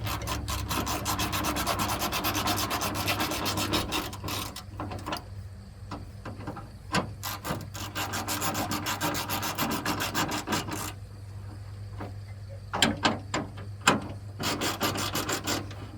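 Stanley hand ratchet clicking in quick runs as fasteners are turned, with short breaks between runs and a pause of about two seconds near the end before more clicks.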